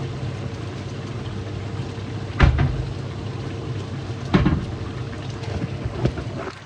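Steady low rushing noise of a pot cooking on the stove, broken by two loud knocks about two seconds apart, like utensils or a lid striking the pot. The rushing drops away near the end.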